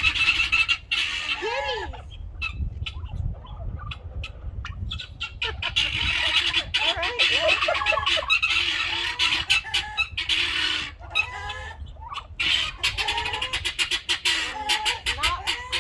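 A flock of turkey hens clucking and calling repeatedly, with many sharp clicks and rattles in between that grow thicker near the end.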